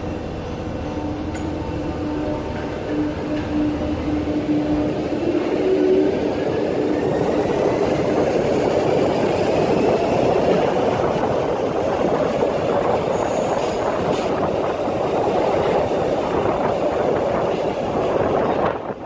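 Train running: a steady rumble with a faint whine rising in pitch, growing louder over the first six seconds or so.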